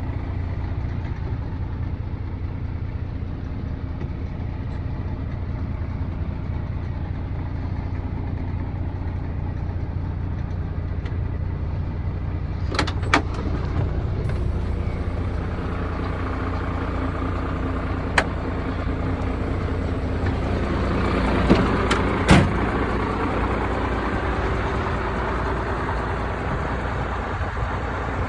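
Scania 113 H 360 truck's 11-litre straight-six diesel engine idling steadily, with a low even hum. A few sharp clicks or knocks stand out over it, the loudest about two-thirds of the way through.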